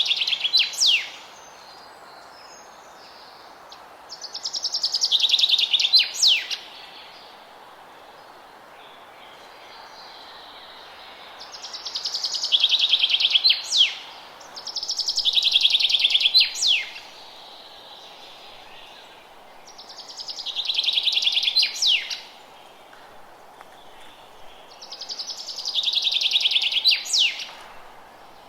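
A songbird repeating the same song six times, about once every four seconds: each phrase is a rapid trill of about two seconds that drops in pitch and ends with a quick sharp sweep. A steady hiss of background noise runs underneath.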